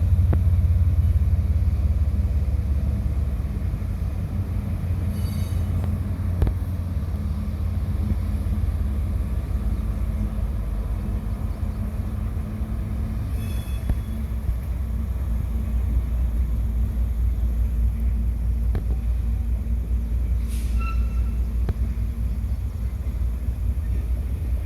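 Train rumbling steadily past, with a few sharp clicks and three brief high-pitched squeals.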